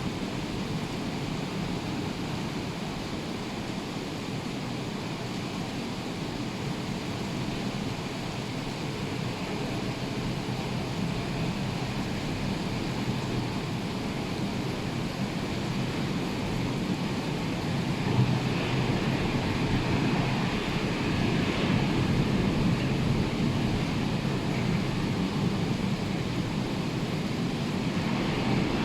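Ocean surf breaking and rushing in a steady wash, with wind buffeting the microphone; it swells a little louder about two-thirds of the way through.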